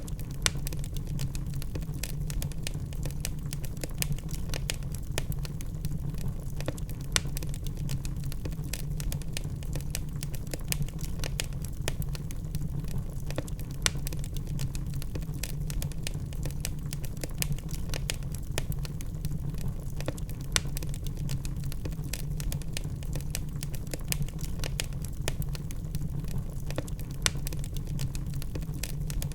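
Wood fire burning, crackling with many small pops and a louder snap every several seconds over a steady low rumble.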